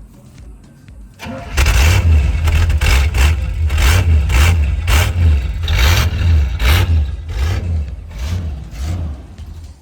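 Carbureted engine of a long-stored 1988 Chevy C1500 pickup cranks and catches about a second in, then runs loud and uneven with the throttle blipped in quick surges, about two a second. It settles lower near the end.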